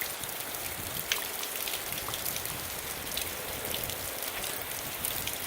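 Rain falling, with scattered drops ticking on surfaces over a steady hiss.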